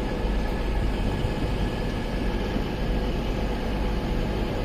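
Northern Class 331 electric multiple unit pulling out of a station, a steady train noise with a strong low rumble.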